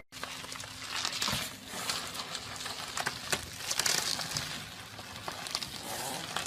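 Plastic bubble wrap crinkling and rustling as a small dog wriggles through a tube of it, with many small scattered clicks.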